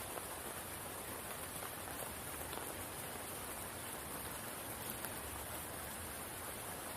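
Steady rain falling on a spring pool, with scattered individual drop ticks over an even hiss.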